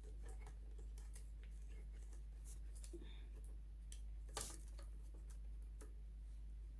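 Light, scattered clicks and taps of hands and a tool handling the plastic and metal parts of a sewing machine being taken apart, with one sharper click about four and a half seconds in, over a steady low hum.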